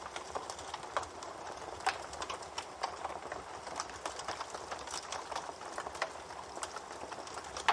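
Campfire burning: a steady soft hiss with irregular crackles and sharp pops from the burning wood, a louder pop about two seconds in and another at the very end.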